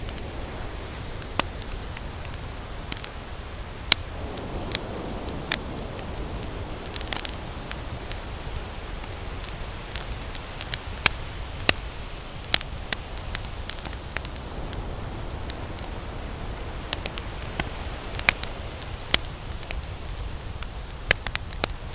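Wood campfire crackling, with sharp pops and snaps at irregular intervals over a steady low background wash.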